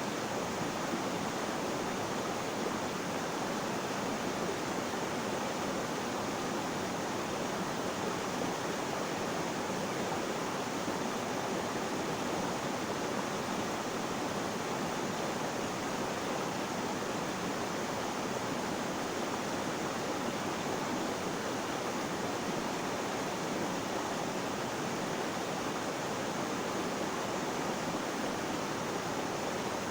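Flowing water rushing in a steady, even stream, with no change in level.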